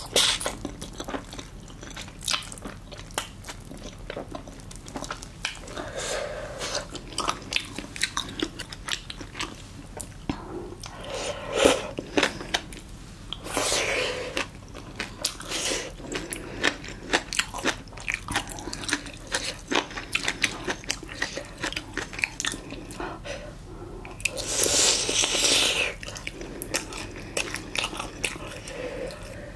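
Close-up chewing and crunching of spicy braised monkfish with bean sprouts, with many small wet mouth clicks. Two longer, louder airy sounds come about halfway through and near the end.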